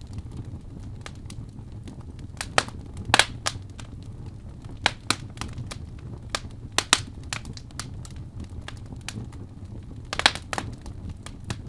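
Fire burning in a fireplace, crackling and popping over a steady low rumble of flame. The loudest pops come in quick clusters about three seconds in and again about ten seconds in.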